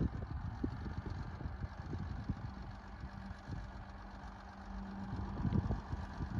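Heavy diesel engine of earthmoving machinery running at a low rumble, with a steady hum through the middle few seconds and scattered knocks.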